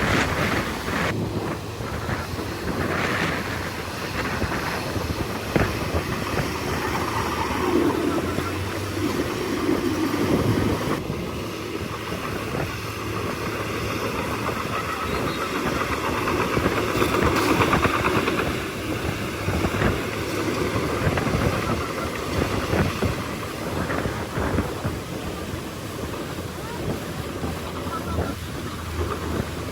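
Bulldozer working: its diesel engine runs steadily under many short clanks and knocks.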